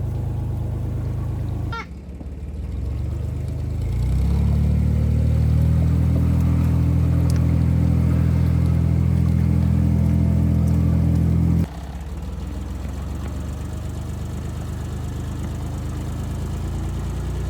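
An engine running steadily. It speeds up about two seconds in, holds at the higher speed, then drops back suddenly to a lower steady run near the end.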